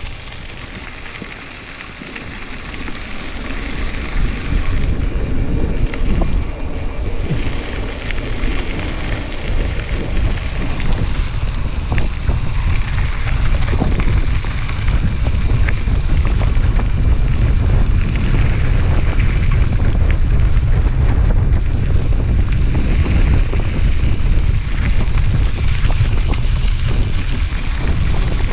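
Wind buffeting the microphone of a camera on a moving bicycle: a low, steady rumble that builds over the first few seconds as the bike gathers speed, then holds.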